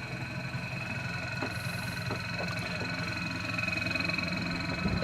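Steady machinery drone aboard a motor yacht: a low hum with a thin, constant high whine over it, the sound of onboard machinery running. A few faint ticks occur, and there is a sharp thump right at the end.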